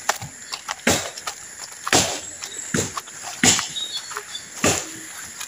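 Footsteps on a wet road strewn with fallen leaves and twigs, about one step a second.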